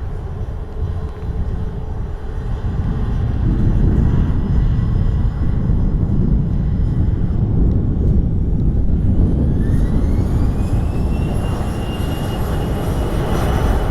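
Jet airliner engines rumbling, with a high whine that rises in pitch over a few seconds about two-thirds of the way in and then holds steady, as the engines spool up.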